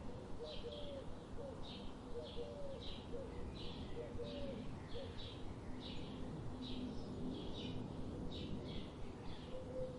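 Birdsong: one bird repeats a short high chirp over and over, a little under twice a second, while lower short calls from another bird come through in the first half.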